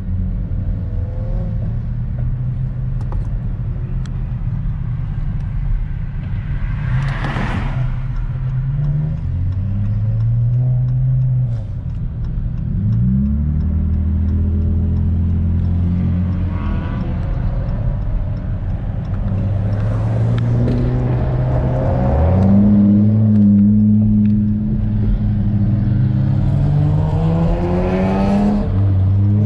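Car engine pulling under acceleration and shifting gears: its pitch climbs, drops at each shift, then climbs again, several times over. A short whoosh comes about seven seconds in.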